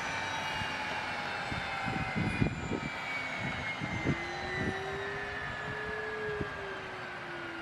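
Bombardier Learjet 31A's twin Honeywell TFE731 turbofans whining, with several high tones slowly falling in pitch over a steady rush. A lower tone rises about halfway through and then sinks again, and a few low thuds come two to four seconds in.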